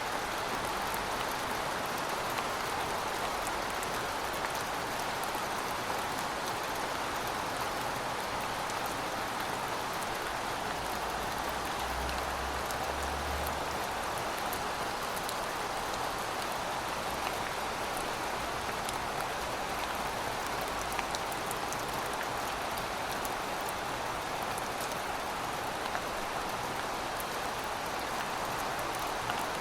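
Steady rainfall: an even hiss of rain with a dense patter of individual drops.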